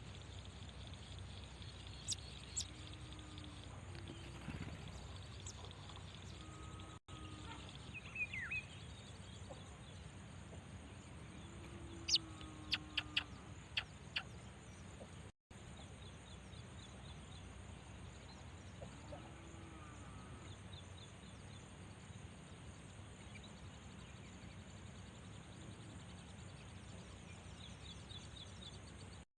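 Faint outdoor hiss with small birds chirping now and then, including a quick run of five or six sharp chirps about twelve seconds in and a few short, low calls.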